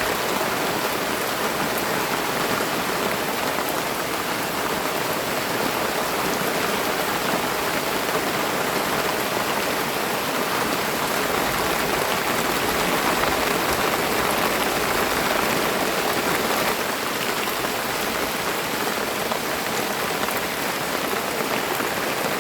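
Rain falling steadily, an even hiss of drops with no breaks or single loud impacts.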